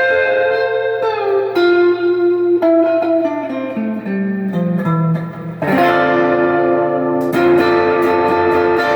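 Donner DST200 electric guitar played through a Sonicake Blues Screamer overdrive pedal in normal mode: a slow run of single notes walking downward, then ringing chords struck about halfway through and again near the end. A steady low mains hum sits underneath, the 60-cycle hum that returns with a single pickup selected.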